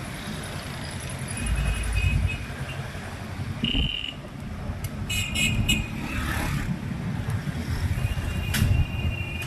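Busy street traffic heard while riding through it: a steady rumble of engines and tyres, with vehicle horns tooting, a short one about three and a half seconds in, a longer one around five seconds, and another starting near the end.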